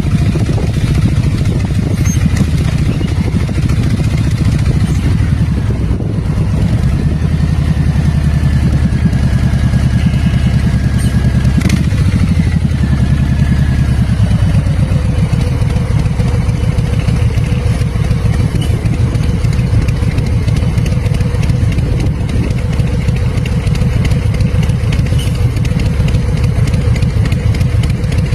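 Bobber motorcycle engine running loudly and steadily; about halfway through the low end eases and it settles into a lower, even note.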